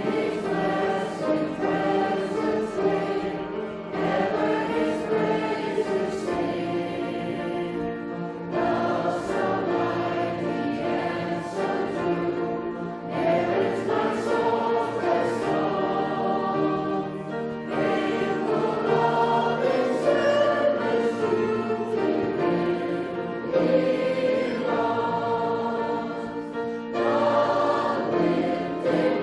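A choir or congregation singing a hymn with instrumental accompaniment, in phrases a few seconds long.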